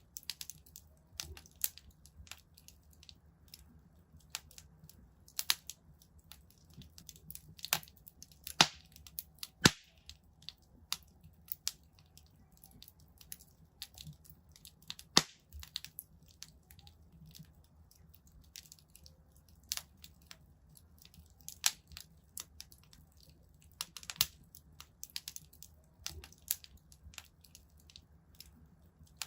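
Wood fire in a fireplace crackling: irregular sharp pops and snaps, with a few louder cracks about nine, ten and fifteen seconds in, over a faint low rumble.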